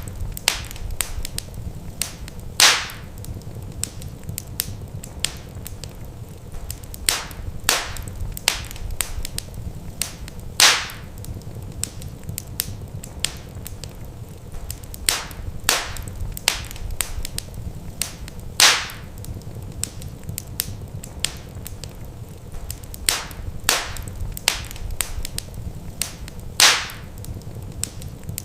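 Wood fire crackling: many sharp pops of varying loudness over a low steady rumble. The loudest pops come about every eight seconds.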